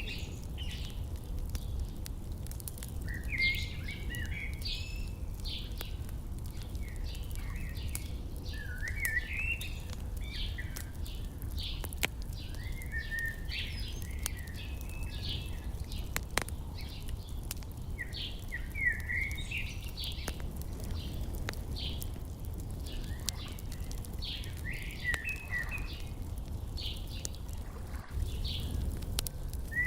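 Songbirds chirping in short phrases every few seconds over an open fire crackling with scattered sharp pops, with a steady low rumble underneath.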